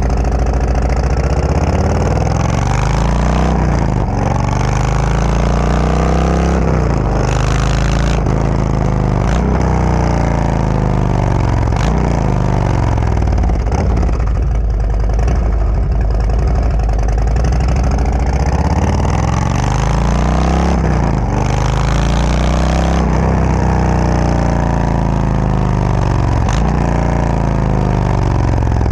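Harley-Davidson Road Glide's Milwaukee-Eight V-twin engine running through a Khrome Werks full exhaust with Ripper baffle inserts, loud and continuous. The pitch climbs and drops again and again every few seconds as the bike revs and accelerates.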